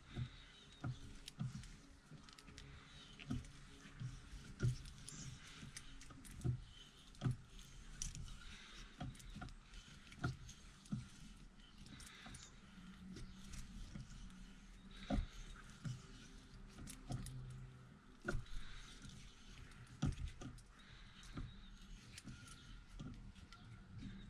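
A hand tap turned into a drilled bleed-nipple hole in a brake caliper, cutting a tapered 1/8 NPT thread: faint, irregular metallic clicks and knocks, about one or two a second.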